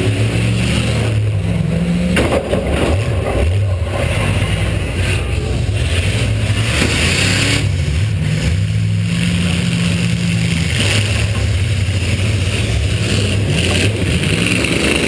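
V8 demolition derby car engine running hard and revving up and down, heard close from on board, with a few sharp knocks.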